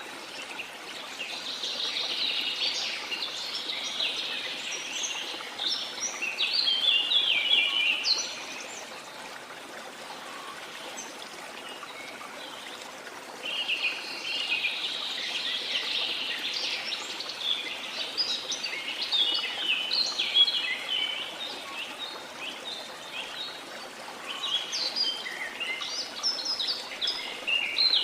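A waterfall runs steadily under a chorus of tropical rainforest birds. The birds' busy chirping swells in bouts, thins out for a few seconds about a third of the way in, then returns and builds again toward the end.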